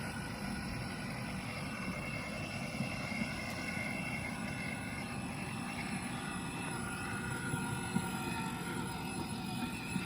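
Anpabo 12V ride-on toy train's electric drive motors and gearbox whirring steadily as it drives along, with a few faint clicks.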